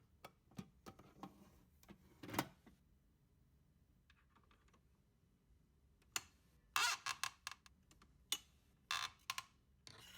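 Scattered clicks and knocks from the plastic parts of a Francis Francis for illy capsule coffee machine being handled, with a louder knock about two seconds in and a quick run of clicks in the last few seconds.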